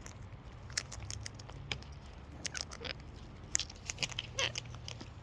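Irregular light clicks and scratches of parrots' beaks and claws, with cockatoos and lorikeets feeding from a bucket and clambering close to the microphone.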